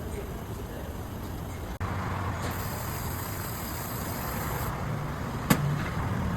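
Toyota Camry on the move: steady road and tyre rumble, a high hiss for about two seconds in the middle, and one sharp click about five and a half seconds in.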